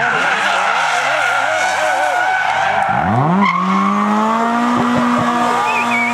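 Rally car engine, its revs falling for about three seconds, then picking up sharply about three seconds in and held high under hard acceleration.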